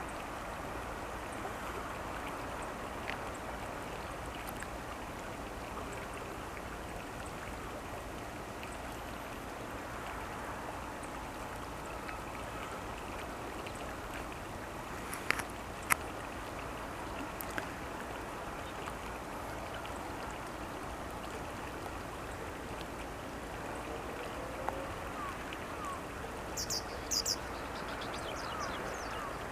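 Steady rushing of river water. Two sharp clicks sound about halfway, and a few short, high-pitched chirps come near the end.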